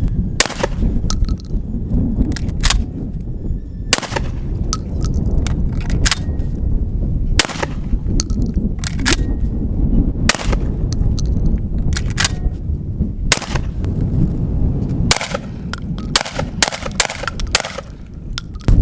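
Beretta 1301 Tactical 12-gauge semi-automatic shotgun being fired repeatedly, shots a few seconds apart, with sharper metallic clicks in between as the bolt release lever is worked.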